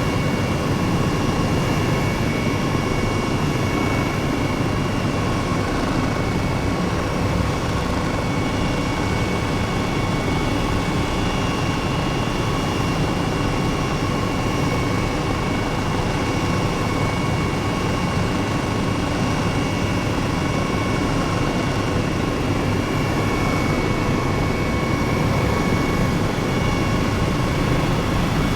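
Helicopter in flight: a steady, loud engine and rotor drone with constant high whines running through it.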